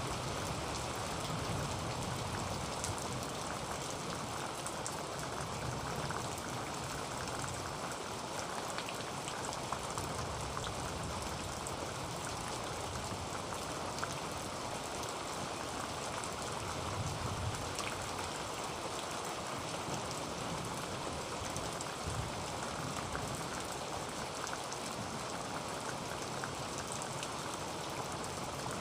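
Heavy rain falling on a tin roof: a steady, dense hiss of drops striking the metal, with fine individual drop ticks throughout and a low rumble that swells and fades now and then.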